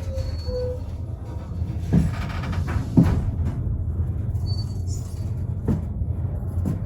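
Historic steam train's carriage rolling along the track with a steady low rumble, and a few sharp knocks from the wheels over rail joints; the loudest knock comes about three seconds in.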